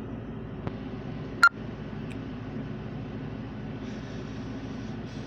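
Steady low background hum, with a faint click just under a second in and a single sharp click about one and a half seconds in.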